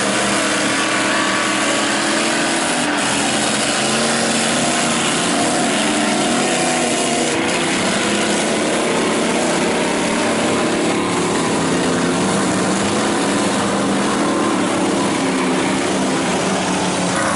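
Lifted mud truck's engine running hard, its pitch rising and falling as it revs.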